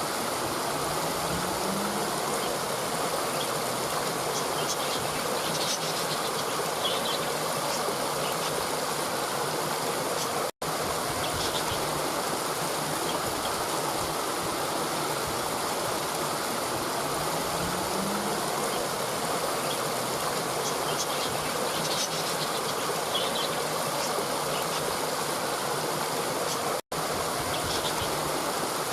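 Steady rushing of a stream, with a few faint high chirps twice and a low rising hum near the start and again about halfway. The sound cuts out for an instant twice, at the joins of a looped recording.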